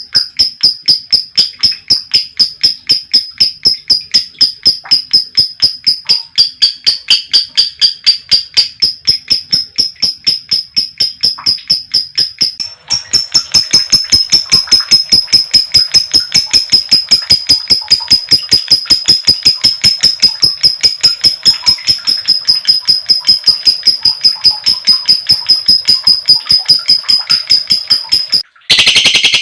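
Female lovebird's long 'ngekek' chatter: a fast, unbroken run of shrill repeated chirps, about four or five a second. It breaks off briefly about thirteen seconds in and again just before the end.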